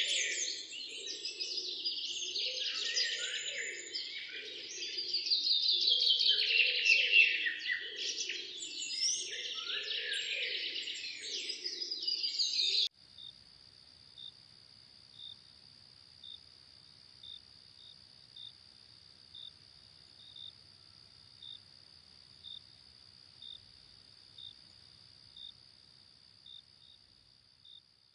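Dense chorus of birds singing, many overlapping chirps and trills. About halfway through it cuts off abruptly, leaving a faint steady insect drone with a short chirp repeating a little more than once a second.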